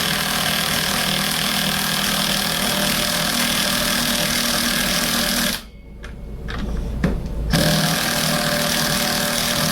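Impact wrench running a nut onto a carriage bolt through a wooden beam, a steady rapid hammering in two runs with a pause of about two seconds a little after halfway.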